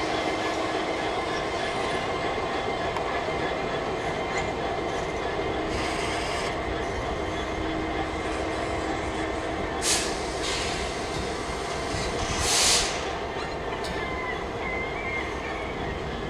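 A train running on the rails with a steady rumble. Short bursts of hissing come about ten seconds in and again a few seconds later, the second the loudest.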